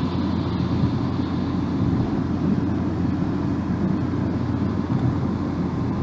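Car driving at steady speed: an even, low drone of tyre and road noise with the engine underneath.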